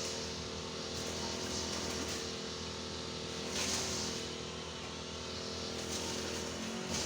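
An engine running steadily at an even speed, with a hissing sound that swells and fades about every four seconds.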